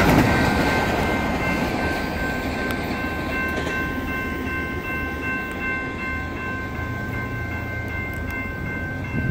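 Rumble of a Norfolk Southern freight train fading as its last cars clear the grade crossing, leaving a steady low rumble. Over it, the crossing's warning bell rings steadily from about a second in.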